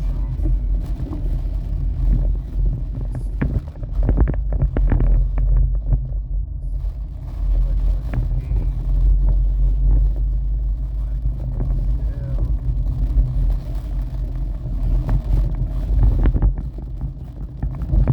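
Storm wind buffeting the microphone: a heavy, steady low rumble with scattered knocks and taps.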